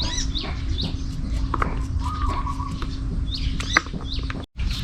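Birds chirping again and again in short falling calls, over a steady low rumble and scattered sharp clicks; the sound cuts out for a moment near the end.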